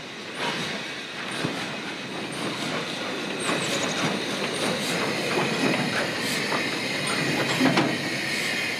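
Train rolling past on jointed track: the wheels clatter over the rail joints in irregular clicks, with a thin, steady high wheel squeal underneath. It grows a little louder toward the end.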